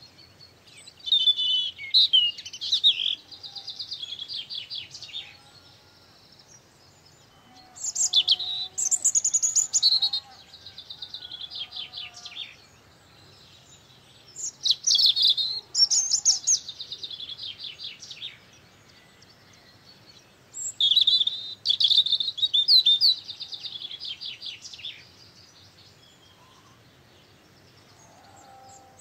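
A songbird singing in four phrases a few seconds long, with short pauses between them. Each phrase opens with loud chirps and runs into a fast trill.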